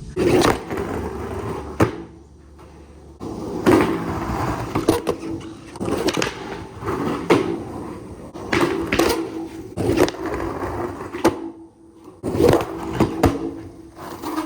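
Skateboard rolling on concrete, with rough rolling noise and repeated sharp clacks and scrapes from the metal trucks grinding and striking a curb.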